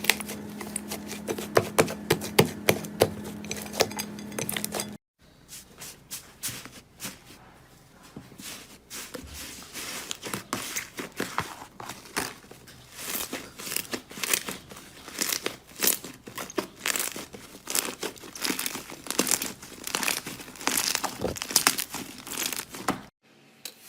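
Slime being squeezed and worked by hand, a dense, irregular run of crackling, popping clicks. A steady low hum sits under the first five seconds and stops abruptly.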